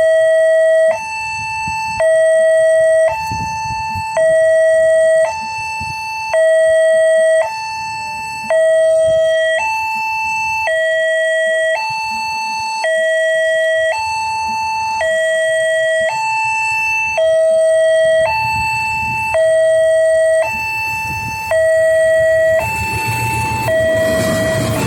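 Electronic two-tone warning alarm of a railway level crossing, a lower and a higher tone alternating about once a second without a break. A low rumble and noise build up underneath in the last few seconds.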